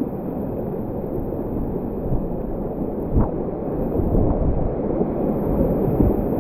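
Rushing creek whitewater, heard muffled, growing slightly louder, with a sharp knock about three seconds in.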